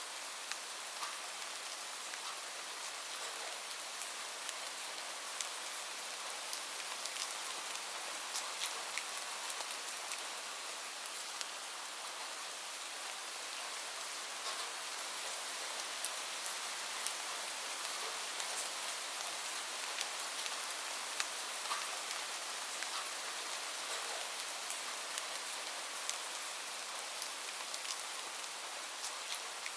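Steady rain falling, with a dense even hiss and many scattered sharp drop ticks on a surface.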